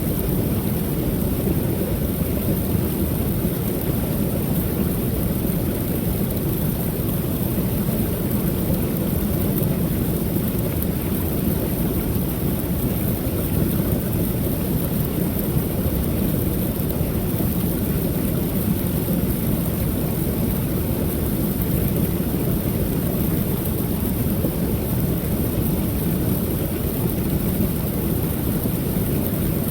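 Creek waterfall: water pouring over the falls in a steady, low-pitched rush.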